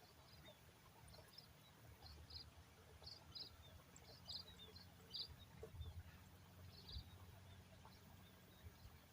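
Faint bird chirps: short high notes, often in pairs, repeating every half second or so, over a low steady rumble.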